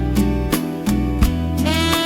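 Slow instrumental smooth jazz: a saxophone melody over guitar and bass, with a steady beat of light drum hits.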